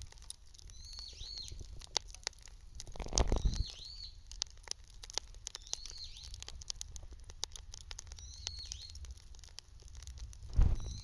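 Bonfire crackling with many small sharp pops, while a bird repeats a short high call about every two and a half seconds. A brief low rumble comes about three seconds in and again near the end.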